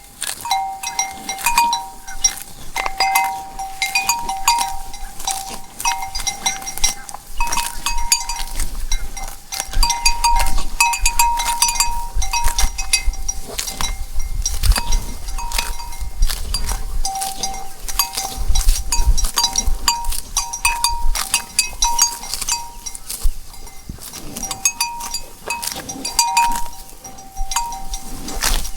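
Bells on grazing cows clanking and ringing irregularly as the animals move, several bells of slightly different pitch, with a low rumble through the middle stretch.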